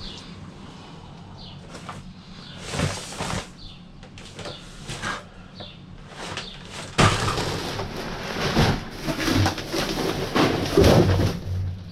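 Knocks, clatter and slam-like thumps of objects being handled, sparse at first and then dense from about seven seconds in.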